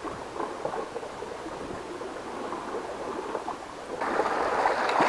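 Sea water washing and gurgling around shoreline rocks, an even wash that surges louder about four seconds in.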